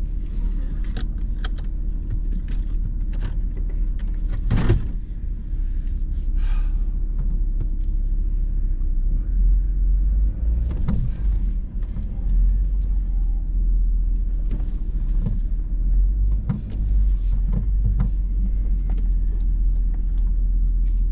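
Hummer H2's V8 engine running low and steady, heard from inside the cab as it crawls along a rocky off-road trail. Scattered sharp knocks and clicks come from the body and suspension, with one loud knock about four and a half seconds in.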